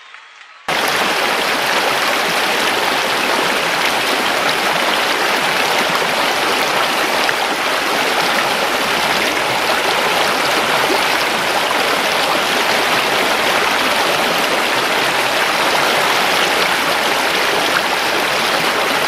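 Steady rushing water, an even hiss that starts abruptly just under a second in and holds at a constant level.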